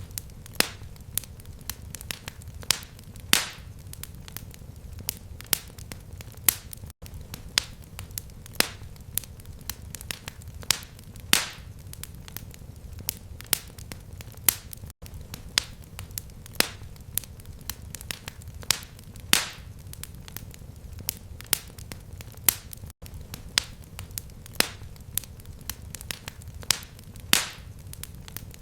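Fireplace fire crackling steadily, with irregular sharp pops, a few louder than the rest, over a low rumble of flame. There are very brief dropouts about every eight seconds.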